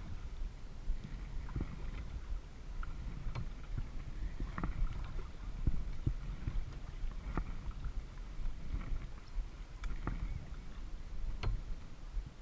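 Kayak paddle strokes dipping into lake water, a short splash about every second and a half, over a steady low rumble of water and wind on the camera housing.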